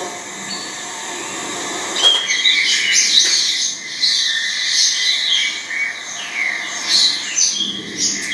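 Birds chirping and twittering in quick, high calls, beginning about two seconds in.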